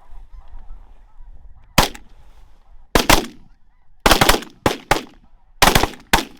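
A volley of about ten shotgun blasts from several hunters, some in quick pairs, starting just under two seconds in. Snow geese call in the background.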